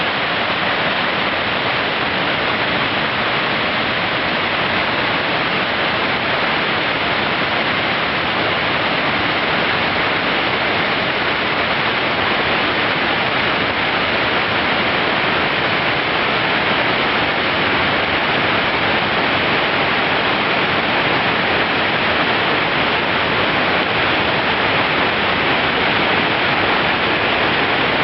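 A waterfall: falling water rushing in a steady, even wash of noise that holds unchanged throughout.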